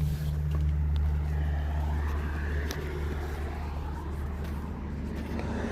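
Steady low mechanical hum with faint background noise and a few light clicks.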